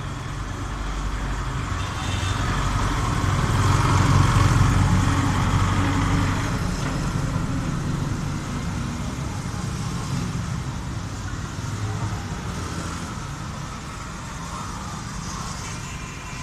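Road traffic noise: a motor vehicle's engine rumble that swells as it passes, loudest about four seconds in, then fades back to a steady traffic background.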